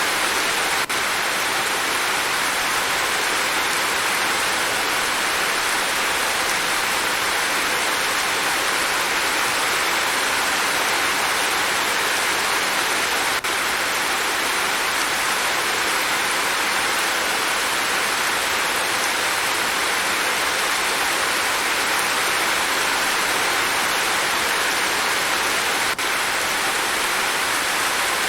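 Steady, even rain with a dense hiss and no single drops standing out. A faint tick is heard three times, about thirteen seconds apart.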